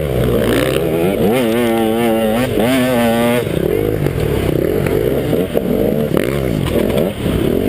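KTM 150 XC two-stroke dirt bike engine being ridden off-road, its revs rising and falling with the throttle and held at a steady pitch for about two seconds near the start.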